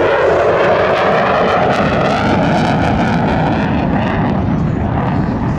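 F-35B Lightning II's single Pratt & Whitney F135 turbofan running loud and steady in flight, with a sweeping, phasing sound through the middle as the jet passes.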